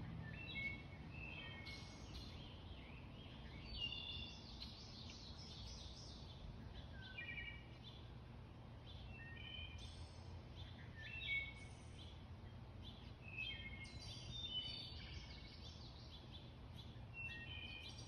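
Songbirds singing short whistled phrases every few seconds over a low, steady background rumble.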